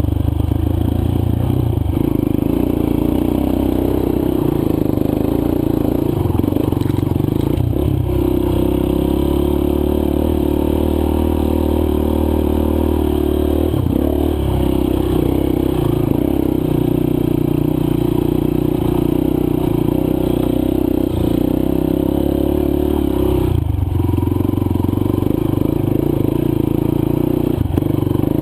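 Single-cylinder four-stroke dirt bike engine running under load on a trail ride. Its note drops and picks up again every few seconds as the throttle is rolled off and on.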